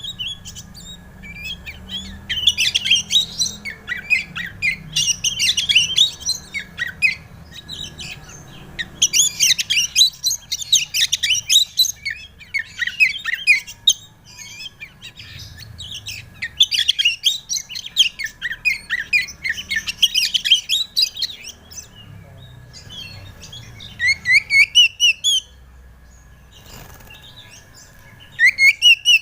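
Oriental magpie-robin (kacer) singing: loud, rapid runs of varied chirps, trills and whistles in bursts of a few seconds with short pauses between. This is the song used as a lure to set other kacer birds singing.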